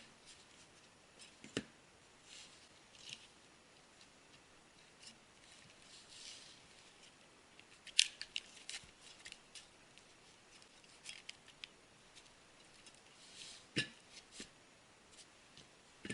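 Small plastic clicks and rustles from handling a Parrot Bebop drone's battery and its plug connector, scattered and irregular, with one sharper click about eight seconds in.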